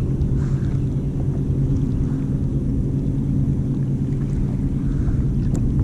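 Steady low drone of a running motor, even and unchanging, with a few faint ticks over it.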